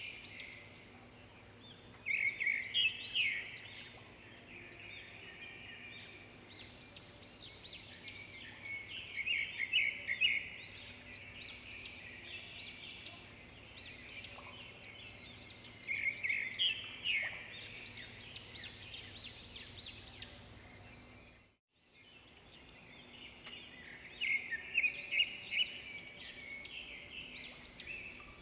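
Birds singing: bursts of quick runs of short, high notes come every six to eight seconds over a faint steady low hum, with a brief dropout of all sound a little past the middle.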